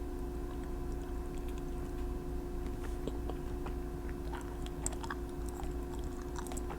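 Small scattered clicks and taps from handling nail-polish bottles and tools, sparse at first and more frequent in the second half, over a steady electrical hum.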